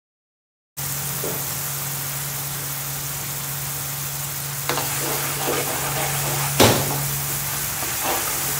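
Chopped onions and green chillies sizzling in hot oil in a steel pan, cutting in about a second in, while a perforated steel ladle stirs and scrapes, knocking against the pan several times, loudest about two-thirds of the way through. A steady low hum runs underneath.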